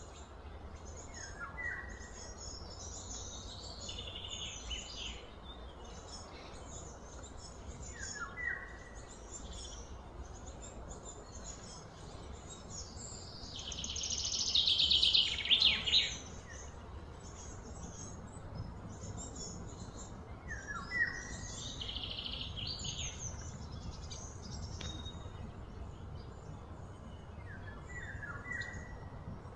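Outdoor birdsong: scattered high chirps, with one bird repeating a short falling call about every seven seconds. About halfway through, a louder, rapid pulsing trill swells for a few seconds and then stops, over a steady low rumble.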